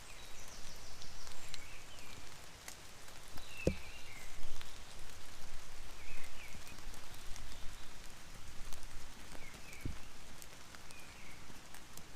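Steady rain pattering, with many small sharp ticks and crackles. Two dull thumps come about four seconds and ten seconds in.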